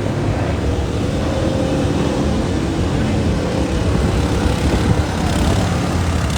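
Moto2 racing motorcycle engine running steadily with a loud, low rumble.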